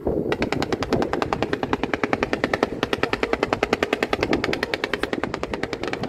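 Fireworks crackling off in a rapid, even string of sharp bangs, about ten to twelve a second for some six seconds, over a steady low hum.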